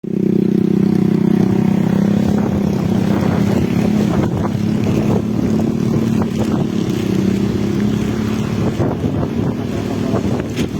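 Strong gusting wind with rain, the wind battering the microphone. A steady low drone runs under it and fades about eight seconds in, with scattered sharp taps.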